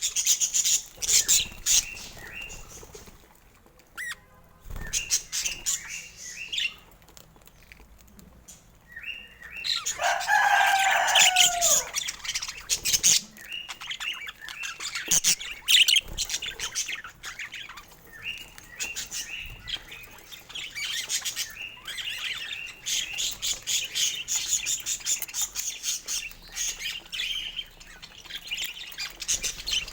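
Budgerigars chirping and chattering, with rapid little clicks between the chirps. About ten seconds in, one budgie gives a louder call that falls in pitch.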